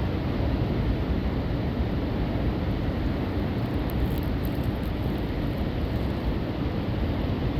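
Steady wash of ocean surf mixed with wind rumbling on the microphone, an even noise heavy in the low end.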